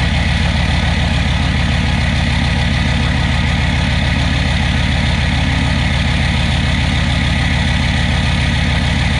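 1999 Chevy Suburban's 6.5-litre turbo-diesel V8 idling steadily through a 4-inch straight-pipe exhaust, still cold shortly after a start at 2 °F.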